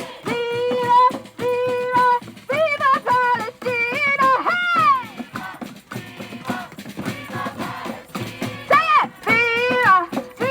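Music: a high voice singing held, sliding notes in phrases of a second or two, with short breaks between them.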